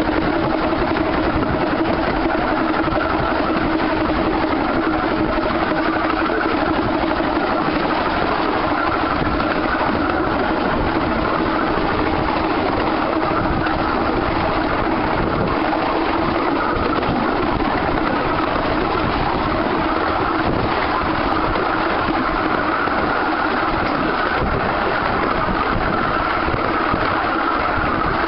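Steady running noise of a 15-inch gauge steam-hauled train heard from aboard a carriage: wheels on the rails and the carriages rattling, with a steady low hum running through it.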